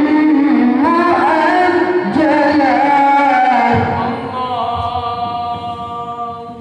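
A single voice reciting the Quran in melodic tilawah style, drawing out long ornamented notes that bend and glide. About two-thirds of the way in it softens into a steadier held note.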